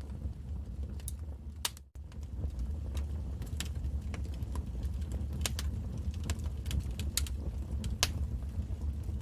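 Wood fire crackling: irregular sharp pops and snaps over a steady low rumble of flames, with one louder pop about eight seconds in. The sound cuts out for an instant about two seconds in.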